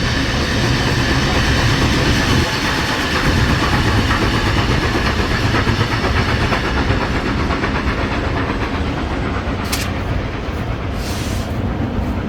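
Train running past on the rails: a loud, steady rumble and rail noise, with two short high-pitched bursts near the end.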